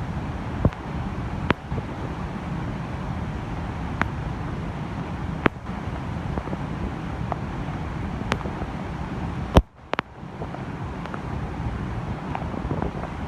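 Hyakken waterfall rushing steadily, its flow swollen by rain, with scattered sharp ticks every second or two. The sound cuts out for an instant about ten seconds in.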